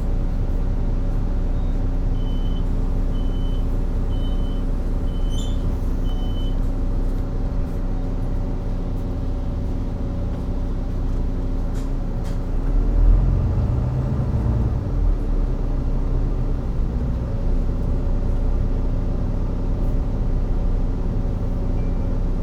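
Volvo B9TL double-decker bus's Volvo D9B-310 diesel engine running steadily. About two seconds in, five short high electronic beeps sound a little under a second apart. Near the middle, the engine note rises with a brief low rumble.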